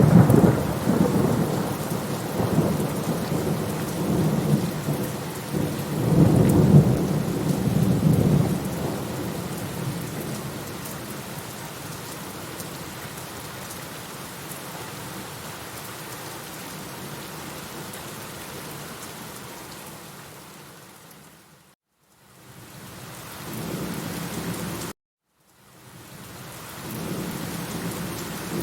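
Thunder rumbling in several swells over steady rain for the first eight seconds or so, then rain alone, gradually quieter. The rain fades out to silence about 22 seconds in and returns, then cuts off abruptly for half a second about 25 seconds in before coming back: splices in a looped recording.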